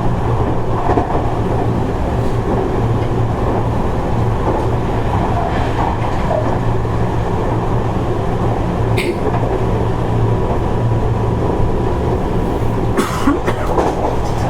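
Seibu 30000 series electric train running along the line, heard from inside the passenger car: a steady loud rumble with a low hum. There are two short sharp sounds, about nine seconds in and again near the end.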